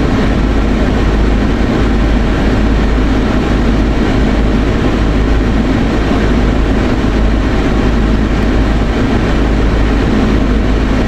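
Steady noise inside a car's cabin, the engine running with a low rumble under an even hiss.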